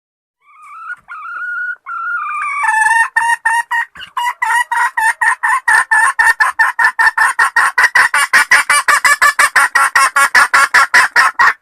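Junglefowl hen calling to males: a few drawn-out wavering notes, then a rapid, steady run of loud clucks at about four a second that cuts off suddenly.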